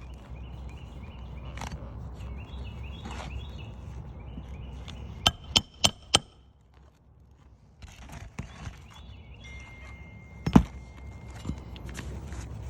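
Hammer striking roofing nails during a shingle repair: four quick ringing metal taps about five seconds in, then a single louder blow about ten and a half seconds in.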